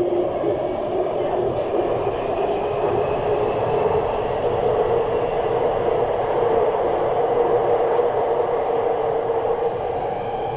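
Taipei Metro train running between stations, heard from inside the car: a steady rumble of wheels on rail and traction motors, with a faint whine over it.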